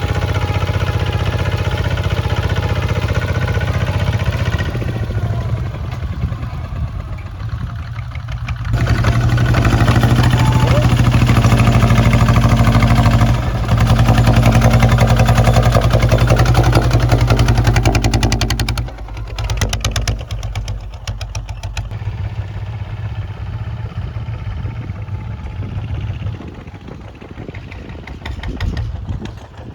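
Kubota ZT 155 tractor's single-cylinder diesel engine running with rapid, even firing pulses. About nine seconds in it picks up and runs louder for about ten seconds, dips briefly in the middle, then drops back to a lower, steadier run.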